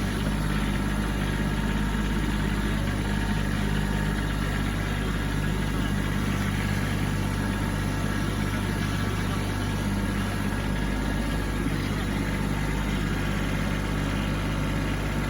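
Kubota B2601 compact tractor's diesel engine running steadily at a constant speed while clearing snow.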